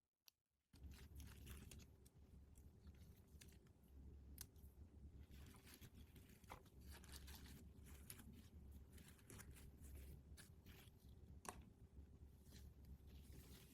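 Faint rustling and tearing of toy packaging being unwrapped by hand, with many small crinkles and clicks. It starts about a second in.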